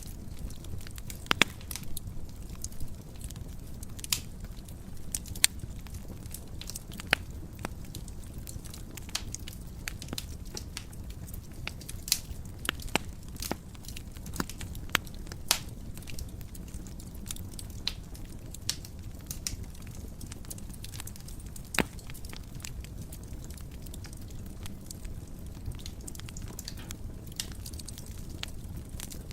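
Wood fire in a fireplace crackling, with a steady low rumble of the flames and frequent irregular sharp pops and snaps.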